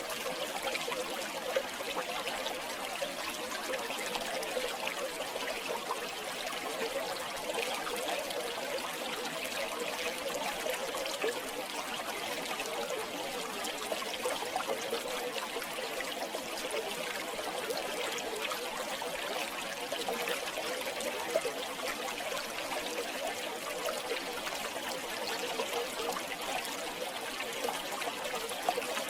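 Shallow river water flowing and trickling over stones: a steady, even babble with small splashes.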